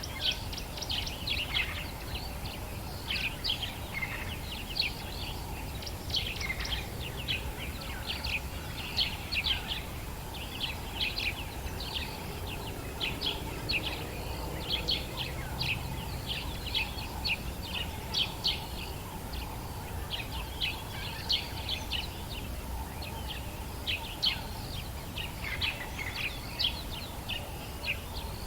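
A dawn chorus of several birds, with many short chirps and calls overlapping throughout, over a low steady background rumble.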